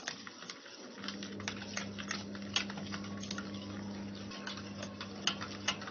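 A spoon stirring powdered sugar into oil in a bowl, with wet mixing sounds and irregular clicks and taps of the spoon against the bowl. A faint steady low hum sits underneath from about a second in.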